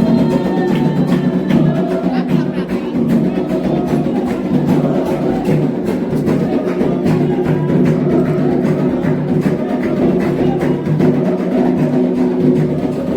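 Candomblé ritual music: hand drums and struck percussion played in a steady, fast rhythm over continuous sustained sound.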